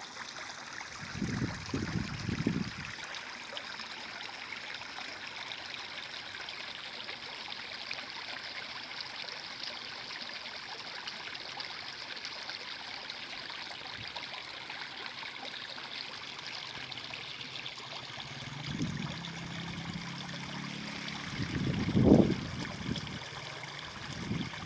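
A stream flowing steadily with a constant trickling rush. A few low rumbling bumps come through: one near the start, one about two-thirds in, and the loudest a couple of seconds before the end.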